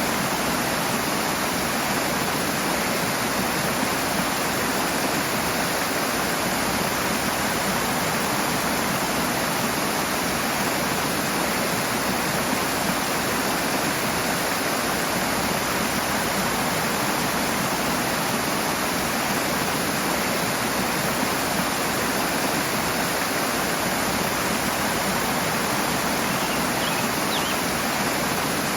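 Rushing water: a fast stream or small waterfall pouring over rocks in a steady, even rush.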